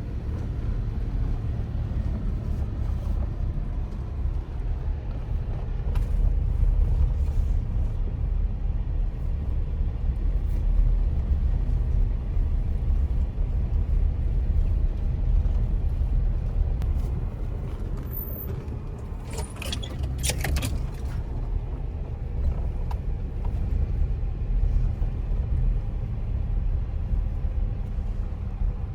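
Motor vehicle driving: a steady low engine and road rumble, with a short burst of rattling about two-thirds of the way through.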